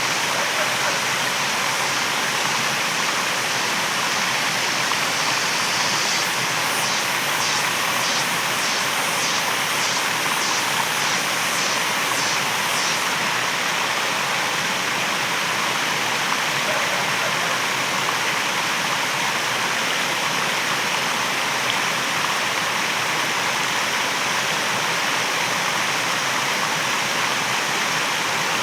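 Waterfall rushing steadily. From about six to thirteen seconds in, a high pulsing sound of about two pulses a second rides over the rush.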